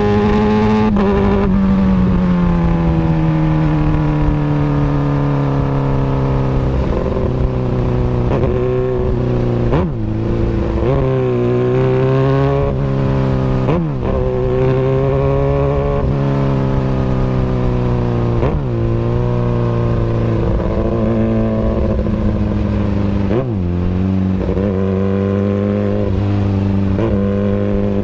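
Kawasaki Ninja ZX-636 inline-four running through an Austin Racing exhaust. Its pitch falls over the first few seconds, then holds fairly steady, with quick dips and recoveries in engine speed several times along the way.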